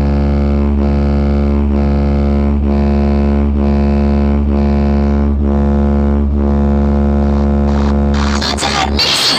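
Loud electronic music blasting from a DJ speaker-box rig: a held, buzzing bass drone with a faint beat about once a second. About eight seconds in it breaks into a harsher, noisy passage.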